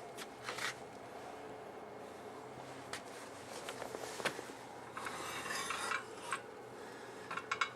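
Light metallic clicks and knocks from metal hardware being handled, with a short scraping rub about five seconds in and a quick run of clicks near the end.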